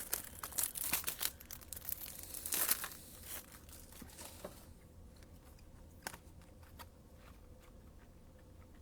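Thin plastic wrapping crinkling and tearing as a new pack of trading-card top loaders is opened, dense for about four seconds, then a few faint clicks of handling.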